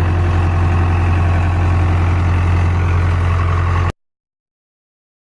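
A vehicle engine running steadily with a strong low drone. The sound cuts off abruptly about four seconds in.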